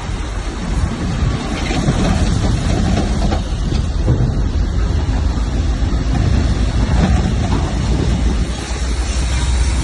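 Heavy diesel engine of earthmoving machinery running steadily with a deep rumble, growing louder about a second in.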